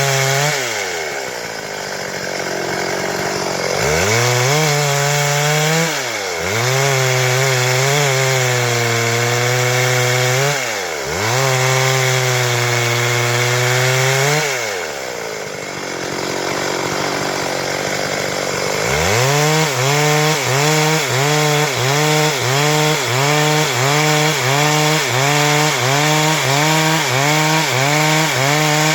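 Stihl MS 382 two-stroke chainsaw running at high revs while cutting wood. Its engine speed drops back toward idle a few times: for a few seconds just after the start, briefly twice, and again for several seconds a little past halfway. From about two-thirds of the way through, the revs dip and recover about once a second.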